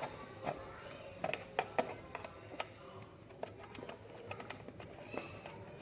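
Scattered light clicks and taps of a screwdriver and screws on the navigation display unit's plastic and metal casing as it is taken apart, over faint background music.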